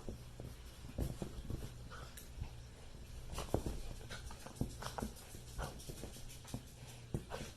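A small dog moving about close to the microphone: scattered soft clicks and knocks, irregularly spaced, over a low steady hum.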